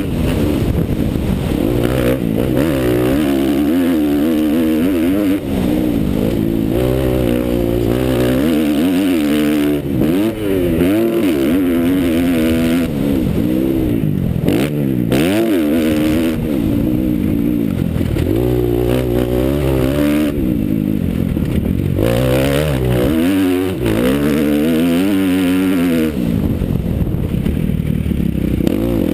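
Motocross bike engine running hard on the throttle, its pitch rising and falling over and over as it accelerates and backs off.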